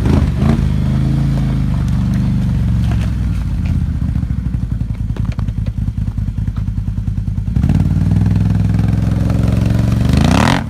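Can-Am Renegade 1000R's V-twin engine running through an aftermarket Yoshimura exhaust, loud. It drops to a slow, loping low-speed beat in the middle, picks up again, and revs up quickly near the end.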